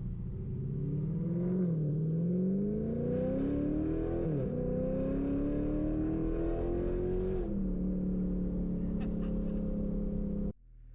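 Dodge Challenger Scat Pack's 392 (6.4-litre HEMI V8) engine with long-tube headers, pulling up in pitch under acceleration, dropping briefly as it shifts up about four seconds in, pulling up again, then settling to a steady cruise. The sound cuts off suddenly near the end.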